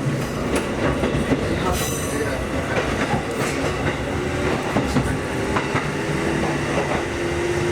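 Kotoden Nagao Line electric train running along the track: a steady rumble of wheels on rail with sharp clicks from the rail joints, and a thin whine that rises slightly from about halfway through.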